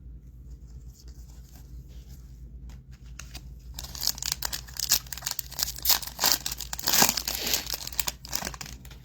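Foil wrapper of a Topps Chrome football card pack being torn open and crinkled, starting about four seconds in after a few light clicks.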